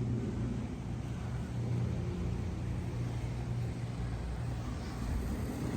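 A steady low engine rumble with a constant hum.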